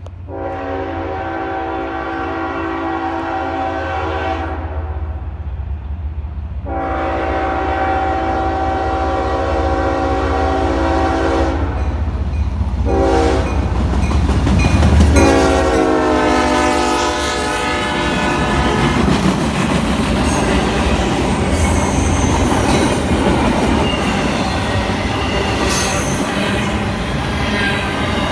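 A CSX freight train passing, its lead locomotive's horn blowing long, long, short, long, the grade-crossing signal, over the low rumble of the diesel engine. The pitch of the last long blast falls as the locomotive goes by. Then the cars roll past with wheels clacking and squealing on the rails.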